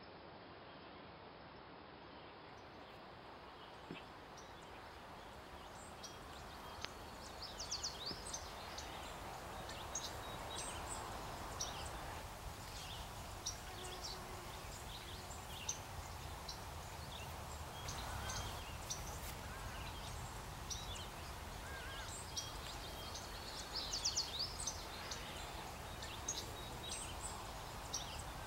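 Outdoor ambience of birds chirping in short high calls over a steady low rumble, the chirps starting about six seconds in and coming most thickly near the end.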